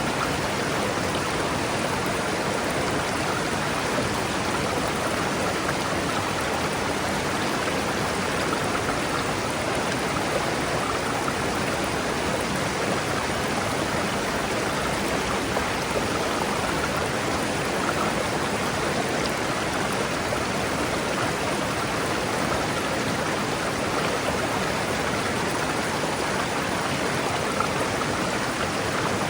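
A river flowing steadily over rocks, a constant rushing of water with no change in level.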